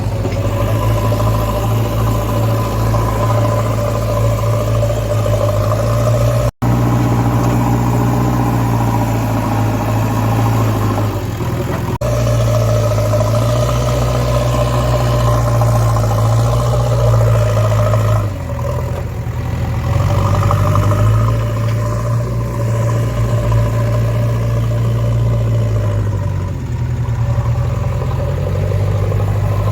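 Heavy diesel machinery engine running steadily, with slight rises and falls in load. The sound cuts out for an instant about six and a half seconds in.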